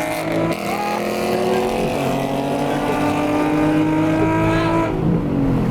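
Nissan 350Z's V6 on a Tomei exhaust under hard acceleration in a street pull, its note climbing steadily in pitch through the gears, with short breaks at the shifts, then dropping near the end as the throttle lifts.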